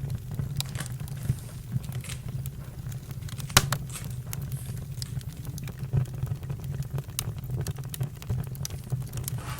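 Campfire crackling, with irregular sharp pops over a low steady rumble and one loud pop about three and a half seconds in.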